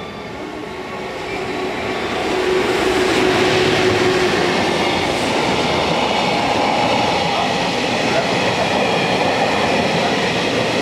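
A JR Freight EF210 electric locomotive hauling a container freight train past. The sound grows as the locomotive approaches and passes about two seconds in, with a steady hum, then the container wagons roll past in a steady, loud rumble.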